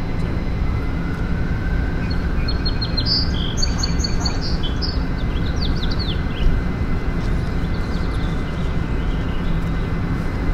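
Birds chirping in short falling notes, with a brief cluster of high calls in the middle, over a steady low rumble of outdoor noise.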